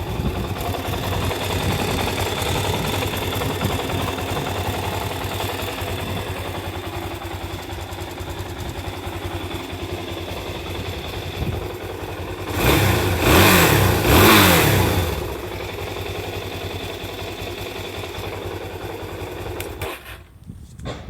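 Suzuki DR-Z400S single-cylinder four-stroke engine on its stock exhaust, idling steadily, revved twice about two-thirds of the way in, then settling back to idle before the sound cuts off near the end.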